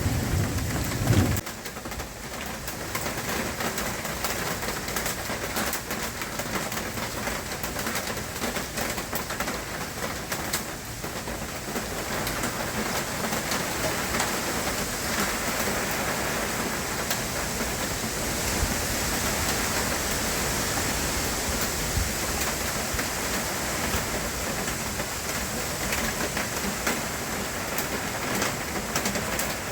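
Hurricane rain and wind making a steady, even hiss, with a brief low rumble in the first second or so.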